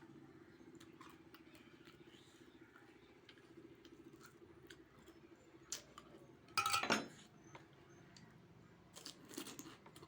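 A person eating pani puri, with crisp shells crunching and chewing in scattered small clicks and crackles. A louder, brief sound falling in pitch comes about six and a half seconds in.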